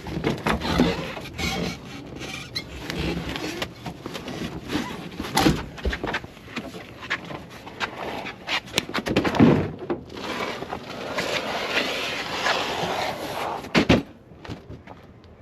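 A truck seat being wrestled out of the cab during an interior teardown: repeated knocks, clunks and scraping, with a louder knock near the end.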